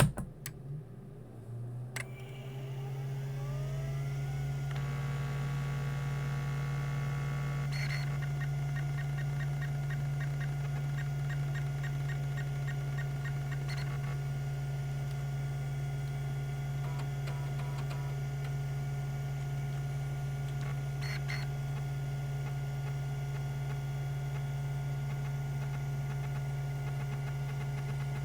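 Tandon TM362 hard drive powering up: a click, then the spindle motor's whine rising as the platters spin up and settling into a steady hum. A run of evenly spaced ticks follows from the rack-and-pinion stepper head actuator, then steady running with a few more clicks.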